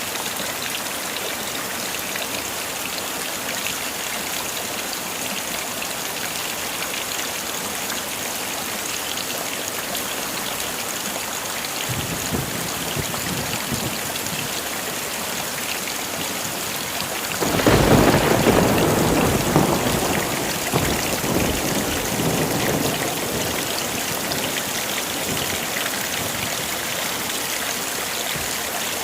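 Heavy rain falling steadily, with a faint rumble of thunder about twelve seconds in and a louder thunderclap about halfway through that starts suddenly and rolls away over several seconds.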